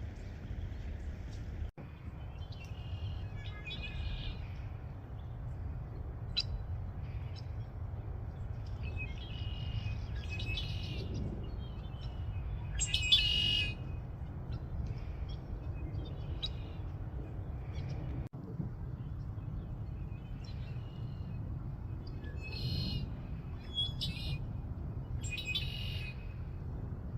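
Red-winged blackbirds singing: separate song bursts every few seconds, the loudest about halfway through, over a steady low rumble.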